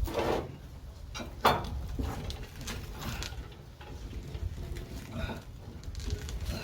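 Scattered knocks and clanks of tools and metal parts being handled under a car while its rear axle is being removed, with one sharp bang about a second and a half in.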